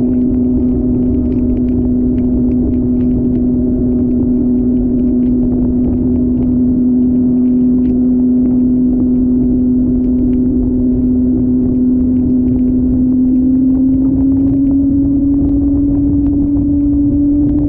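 Motorcycle engine running at a steady speed with an even drone, its pitch rising slightly in the last few seconds.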